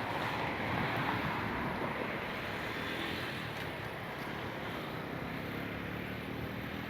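Outdoor wind and road traffic: a steady rushing noise that eases a little after the first couple of seconds, with a low engine hum coming in near the end.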